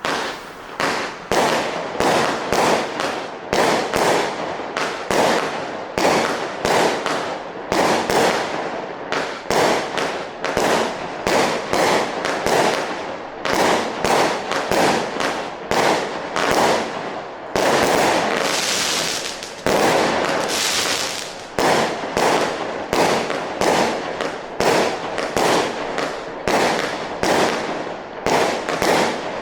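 Single-ignition firework cake firing shot after shot, about two to three sharp bangs a second, each trailing off; about two-thirds of the way through, a stretch of thicker hissing and crackle.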